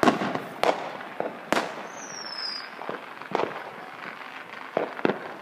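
Fireworks going off: a string of about eight sharp, echoing bangs at irregular intervals, with a high, slightly falling whistle about two seconds in.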